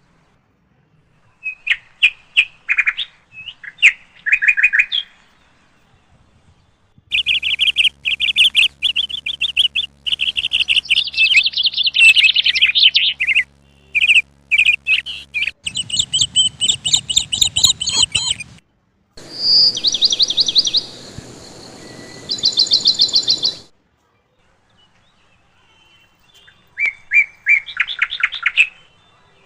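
Small birds chirping in rapid runs of short, high notes that come in clusters with pauses between. A steady low hum sits under the chirping for several seconds in the middle.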